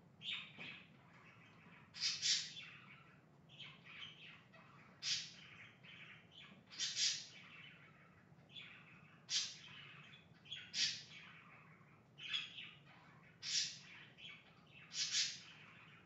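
Pet birds chirping in short calls, one every second or so, over a faint steady hum.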